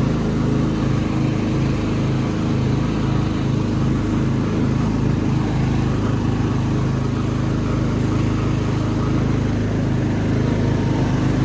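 Tractor engine running steadily under way, an even low engine hum that does not rise or fall.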